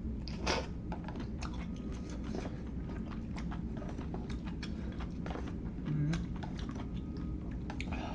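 Close-miked eating of instant hot pot noodles: chewing, heard as an irregular run of small clicks and taps.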